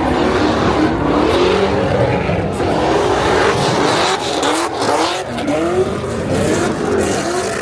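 Car doing a burnout: the engine is held at high revs, its pitch wavering up and down, over the steady hiss and squeal of spinning tyres.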